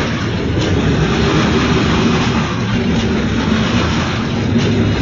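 Renfe freight train rolling past close by: a loud, steady rumble of wheels on the rails.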